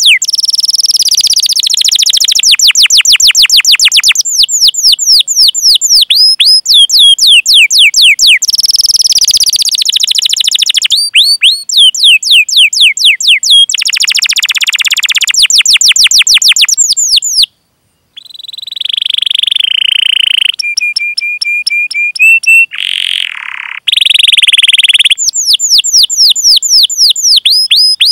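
Domestic canary singing a long song: fast runs of repeated downward-sweeping 'cuit cuit' chirps alternate with buzzy rolls and steady trills, with a brief break about two-thirds of the way through.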